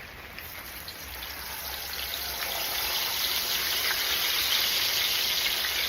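Whole red snapper frying in a pot of hot oil, the oil sizzling. The sizzle builds over the first few seconds after the fish goes in, then holds steady.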